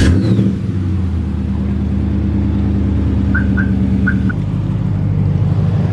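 Pickup truck engine catching after cranking and running at a steady idle; about four seconds in, its note changes as the idle settles.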